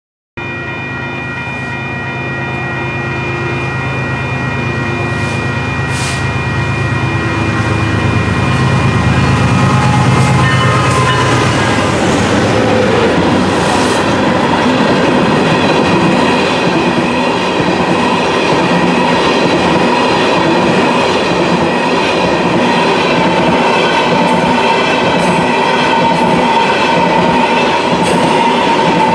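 Union Pacific manifest freight train passing close by: a deep engine rumble for about the first twelve seconds as the diesel locomotives go by, then the steady rolling clatter of tank cars and other freight cars on the rails.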